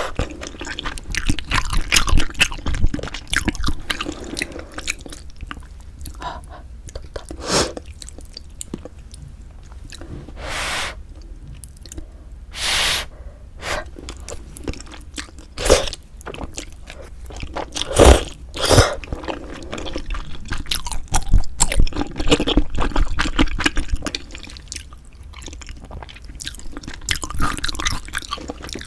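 Close-miked eating of pork-bone hangover soup with glass noodles: chewing with many small wet clicks, and two longer slurps of about half a second each around the middle.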